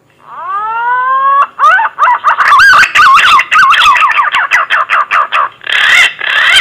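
Green pigeon (punai) song played as a hunting lure call: one long whistle rising in pitch, then a fast run of wavering, warbling whistled notes that stops abruptly.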